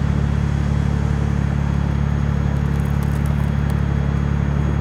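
Car engine running steadily at low revs as the car creeps slowly backward in reverse, a constant low drone.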